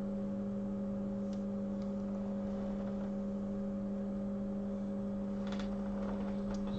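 Steady electrical hum from bench equipment, with a few faint clicks near the end.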